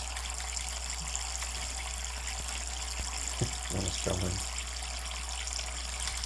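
Water running steadily from a faucet, a continuous even hiss, with a brief low sound in two short parts a little past the middle.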